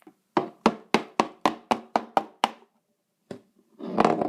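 A quick series of about nine sharp knocks or blows, roughly four a second, each ringing briefly. A louder, noisier sound starts near the end.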